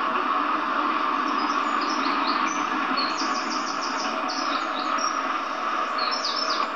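A songbird singing in short runs of quick, high, falling chirps, repeated several times, over a steady background hiss.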